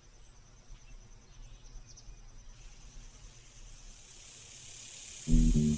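Faint insects chirring in an even, rapid pulse over quiet woodland ambience, with a hiss that slowly swells. Loud music starts suddenly near the end.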